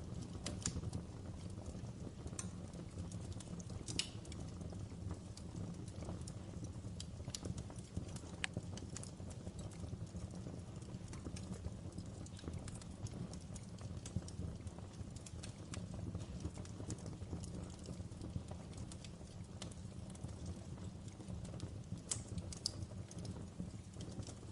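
Wood fire burning in a fireplace: a steady low rumble with irregular crackles and pops, a few sharper snaps about four seconds in and near the end.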